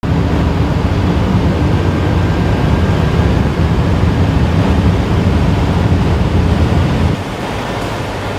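Hypercar at very high speed during a 0-400 km/h run: a loud rush of wind and road noise over a low drivetrain drone. The drone drops away about seven seconds in, leaving a quieter steady wind rush.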